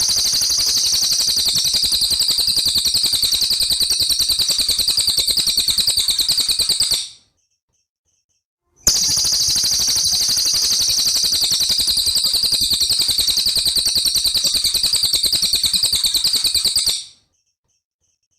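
A small songbird's very fast, even trill, in two bouts of about eight seconds each that start and stop abruptly with a short silent gap between. It is a looped recording played as tutor song ('masteran') for training cage songbirds.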